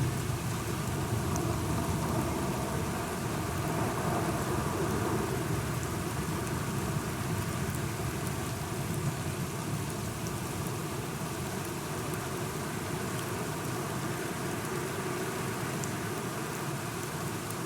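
Steady rain falling, with a low rumble of thunder in the first half that slowly eases off.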